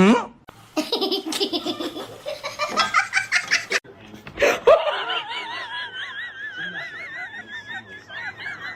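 Laughter in quick repeated bursts for the first few seconds, then a long high-pitched wavering call with a fast warble.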